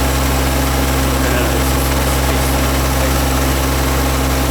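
Yanmar combine harvester's diesel engine running steadily, with an even low hum.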